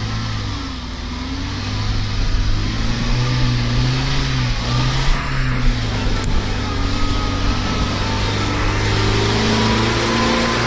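Off-road 4x4 engine running under load, its pitch rising and falling as the throttle is worked, over a steady noisy rush.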